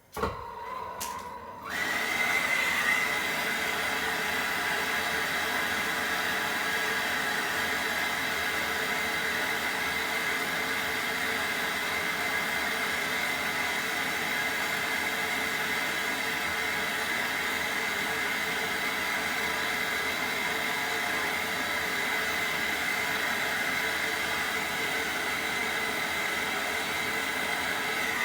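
Gas brazing torch lit about two seconds in, then burning with a steady hissing rush while copper refrigerant tubing is brazed.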